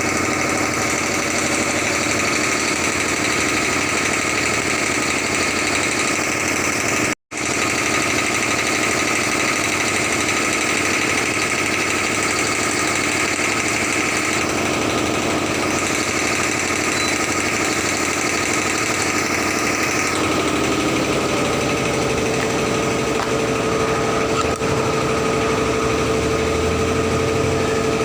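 A machine running steadily. It cuts out for an instant about seven seconds in, and after about twenty seconds a steady hum joins in.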